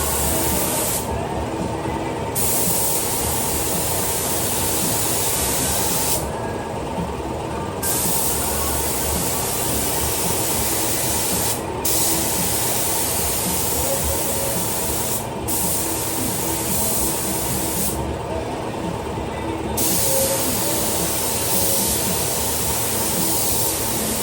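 Automotive paint spray gun hissing as it lays on paint, the trigger let go for a second or two at a time about five times between passes. A steady hum runs underneath.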